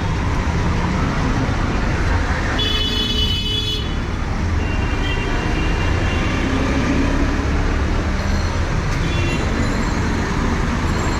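Busy city street traffic in the rain: a steady wash of engines and tyre and rain noise. A vehicle horn sounds for about a second about three seconds in, and fainter horns sound later.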